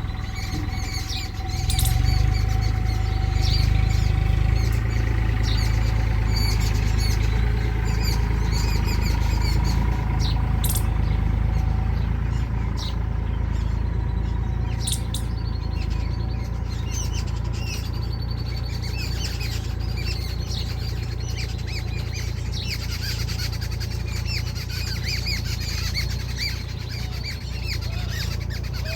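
Many small birds chirping in quick, short calls, over a steady low rumble.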